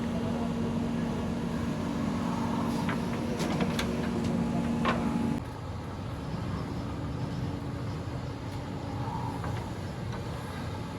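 Diesel engines of a JCB backhoe loader and a tractor running during mud loading, with a few sharp clanks in the middle. About halfway through, the loud steady engine note stops and a quieter engine sound carries on.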